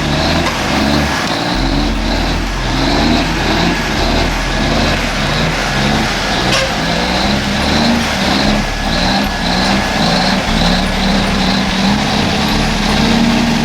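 Diesel engine of a heavy logging semi-truck running hard, its pitch stepping up and down as it works. A single sharp click about halfway through.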